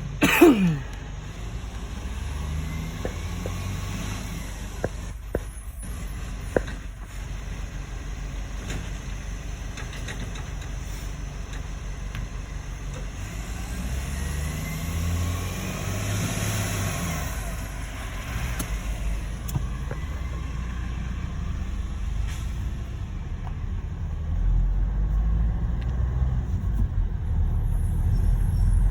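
Motor vehicle engines running with a steady low rumble. It swells about halfway through as a vehicle passes and grows heavier near the end. Right at the start a short falling tone sweeps down quickly and is the loudest sound.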